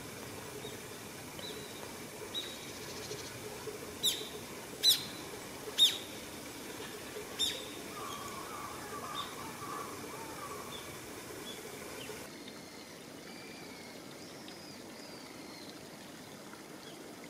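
Wild birds calling: a series of sharp, high calls, the four loudest about a second apart, followed by a softer, lower twittering, over a steady faint background hiss.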